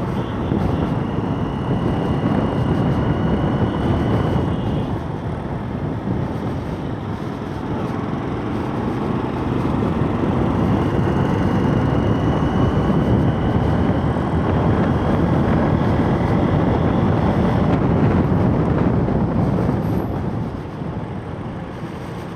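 Motorcycle riding along: steady engine and road noise with heavy wind rush on the microphone and a faint high whine that comes and goes. The whole sound eases off near the end.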